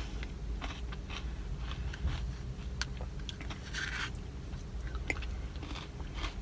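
Close-up chewing of a mouthful of pumpkin pie Blizzard, with small crunches from the crunchy bits in it and scattered mouth clicks and smacks.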